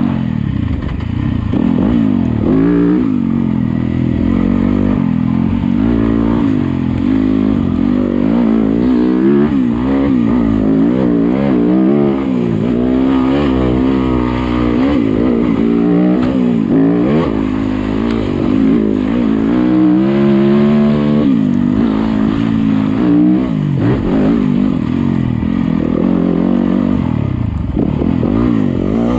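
Yamaha YZ250FX's 250cc four-stroke single-cylinder engine on a dirt bike being ridden on a trail, the revs rising and falling constantly as the rider works the throttle and gears.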